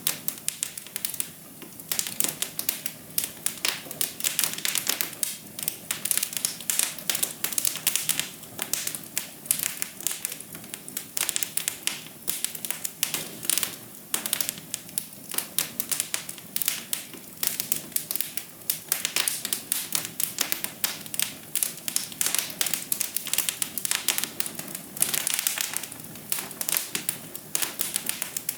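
Wood fire crackling in a fireplace: a constant, irregular stream of small sharp snaps and pops over a soft hiss, with a brief cluster of louder pops a little before the end.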